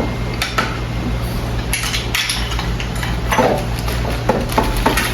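Kitchen dishes and utensils clattering: scattered short clinks and knocks at irregular times, over a steady low hum.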